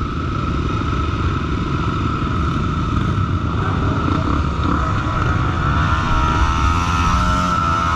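Honda XR 250 Tornado single-cylinder trail motorcycle engine running steadily under way. Its engine note shifts in pitch over the last few seconds.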